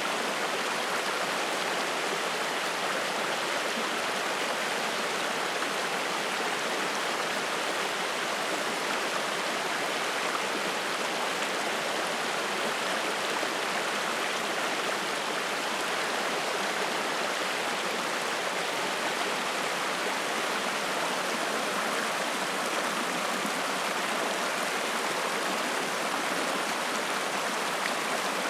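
Spring-fed mountain stream flowing and splashing in a steady, even rush of water.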